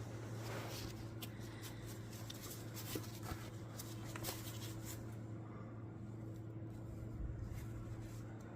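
Light handling noise with a few scattered clicks and taps over a steady low hum.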